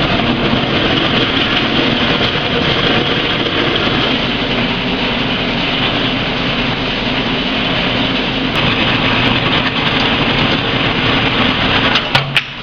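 A metalworking power tool or machine running steadily under load for about thirteen seconds, cutting off suddenly near the end.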